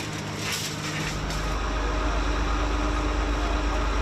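A heavy engine running steadily, with a deep low rumble that comes in about a second in and holds.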